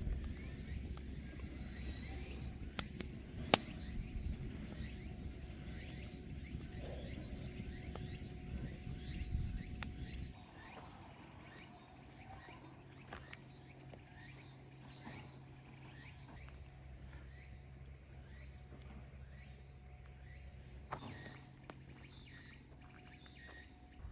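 Faint outdoor ambience. A low rumble with a single sharp click runs for about the first ten seconds, then cuts off abruptly to a quieter background with faint insect-like chirps.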